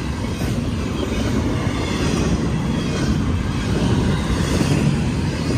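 Florida East Coast Railway intermodal freight train's double-stack container cars rolling past at speed: a steady, loud rumble of steel wheels on the rails.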